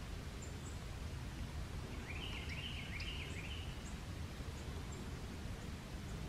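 A bird calling once, a quick run of about five notes about two seconds in, with a few faint high chips, over steady low outdoor noise.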